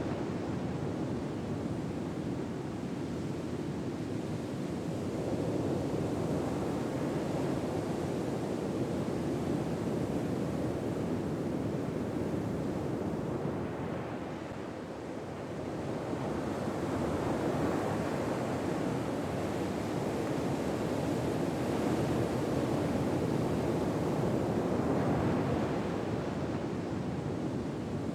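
Ocean waves washing in, an even rushing noise that swells and ebbs slowly over several seconds, with a lull about halfway through.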